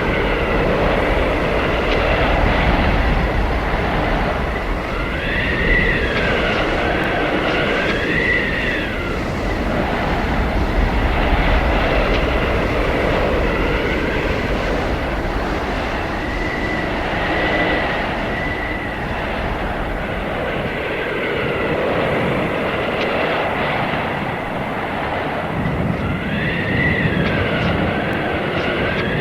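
Blizzard wind blowing in a steady rush, with high whistling howls that rise and fall in pitch as gusts come and go, several times.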